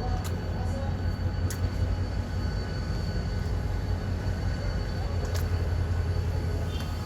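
Train rumbling steadily, with a few sharp clicks.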